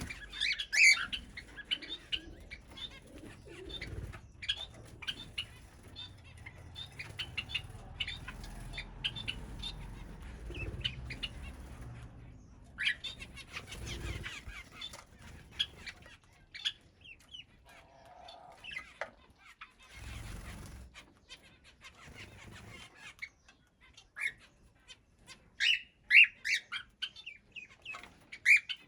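Aviary birds in a mixed colony that includes cockatiels, chirping and calling in many short, high notes, the loudest about a second in and again near the end, with wings fluttering.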